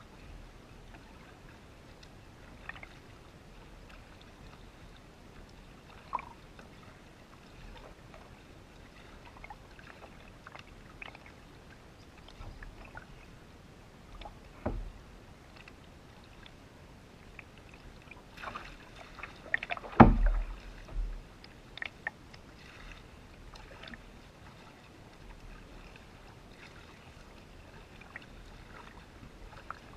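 Canoe on the water: scattered paddle splashes and light knocks against the hull, with one loud thump about twenty seconds in.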